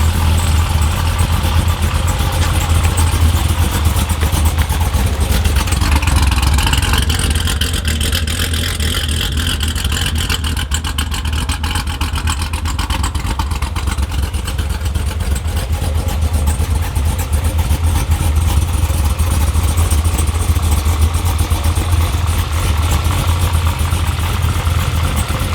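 Chevrolet C7 Corvette's rebuilt 6.2-litre LT1 V8 with a stage 1 Brian Tooley cam, running steadily with a deep, even rumble.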